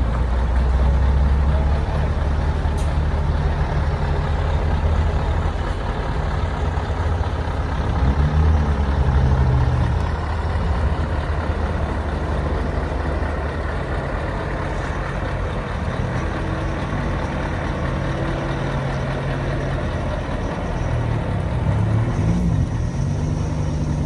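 Scania R 143 truck's 14-litre V8 diesel running. It has a steady low tone that briefly swells and changes pitch twice, about eight seconds in and again near the end.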